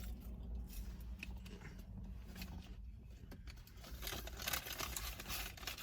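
Faint crinkling and rustling of paper fast-food packaging being handled, a scatter of small crackles that grows busier in the second half, over a low steady hum.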